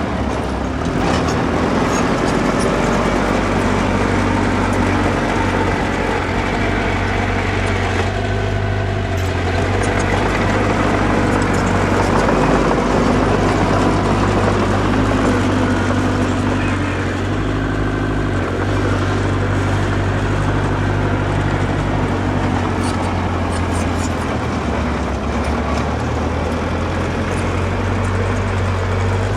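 Diesel engine of earthmoving machinery running steadily, its low note stepping up and down as the load changes, with a few faint clanks.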